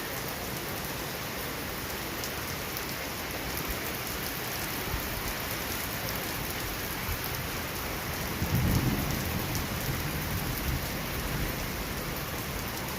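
Heavy rain falling steadily, with a low rumble of thunder rising a little past halfway and then tailing off.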